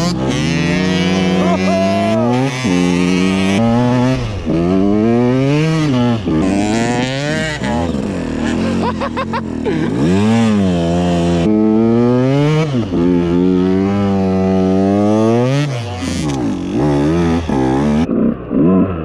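Single-cylinder two-stroke engine of a KTM EXC 125 enduro bike being ridden. It revs up and drops back over and over, its pitch climbing and falling every second or two.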